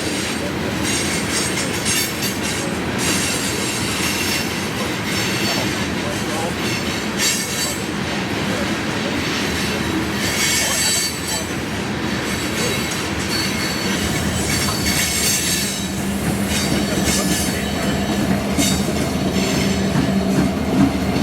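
Freight train cars rolling past with a steady rumble, broken every few seconds by short bursts of high-pitched wheel squeal. A steady low hum joins in during the last few seconds.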